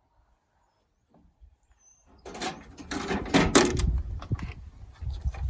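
About two seconds of near silence, then a run of clunks, knocks and scraping with a low rumble under them.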